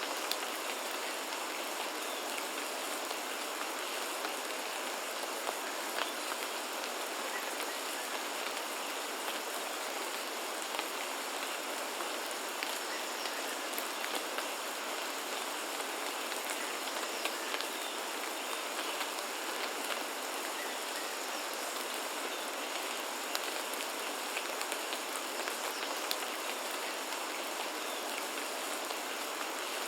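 Steady rain falling, with individual drops ticking close by. A faint steady high tone runs underneath.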